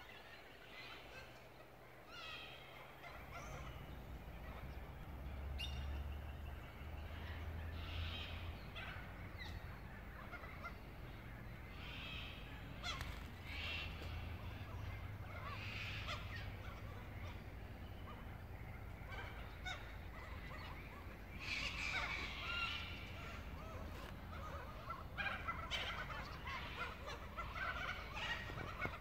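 Several birds calling on and off, with short repeated calls coming in clusters, over a steady low rumble.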